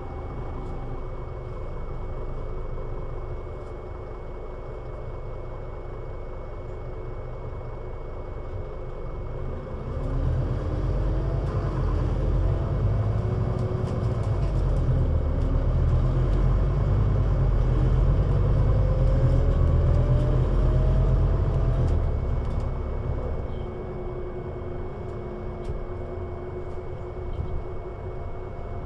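Scania Citywide LFA articulated city bus running. It runs fairly quietly at first; about ten seconds in the engine takes load and grows much louder, its pitch rising as the bus accelerates for some ten seconds, then it eases back to a quieter run.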